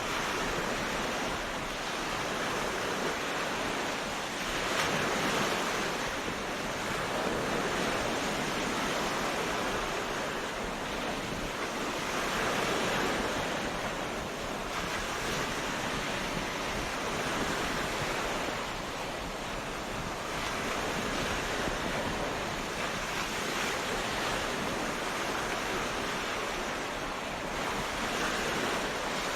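Ocean surf breaking on a beach: a steady wash of waves that swells and eases every few seconds.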